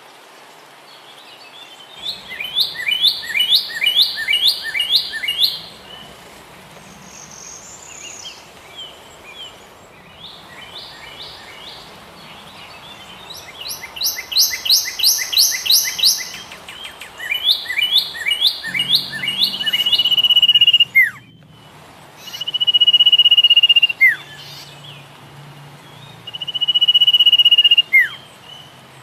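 Birdsong: quick runs of repeated high chirps, then several long, steady whistled notes, each ending in a quick downward slide.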